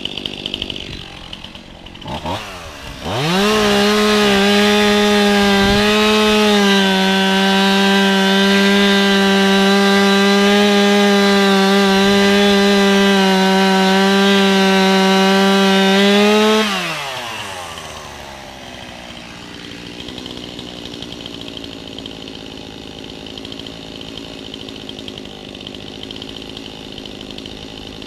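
Two-stroke chainsaw idling, then revving up about three seconds in and held at a steady full throttle for about thirteen seconds before dropping back to idle.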